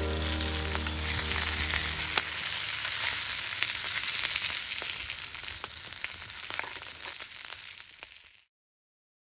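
Oil sizzling with scattered pops as a chive pancake fries, growing gradually fainter and ending in silence near the end.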